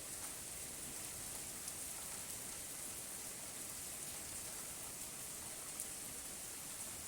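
Steady rain falling, an even hiss with the odd louder drop ticking through.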